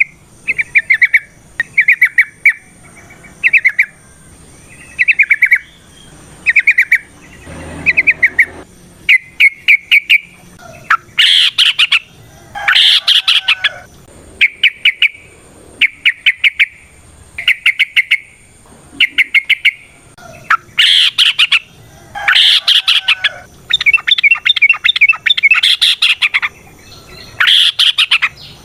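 Yellow-vented bulbul (trucukan) singing: short bursts of rapid chattering notes, one every second or two. Partway through, louder, fuller phrases come in, and near the end there is a longer unbroken run.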